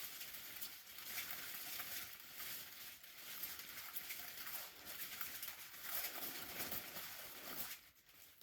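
Dense crackling, rustling noise made of many fine clicks, which drops away shortly before the end.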